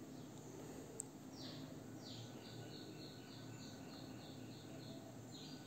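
A bird calling faintly, a couple of short downward-sweeping calls and then a quick run of chirps about three a second, over low steady background noise. A single faint click about a second in.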